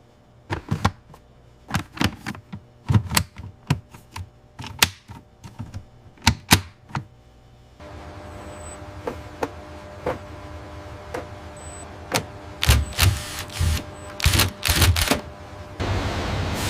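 Irregular series of sharp mechanical clicks and clacks, typewriter-like, from assembly-line machinery and parts being fitted. About halfway through, a steady low machine hum comes in under the clicks.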